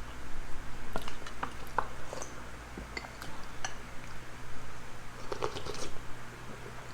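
Spoons and forks clinking and scraping against plates and bowls in a dozen or so scattered short clicks, over a steady low hum.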